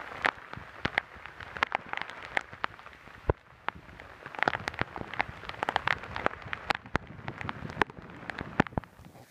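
Rain during a thunderstorm: big drops striking a hammock tarp as irregular sharp taps, several a second, over a steady hiss of rain.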